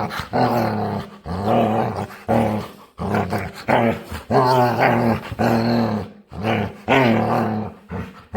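A dog making a string of drawn-out, low, growl-like play noises, about one a second, one of them sliding down in pitch near the middle.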